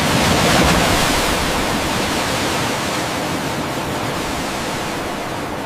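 A loud, steady rushing hiss that swells in the first second and then slowly fades.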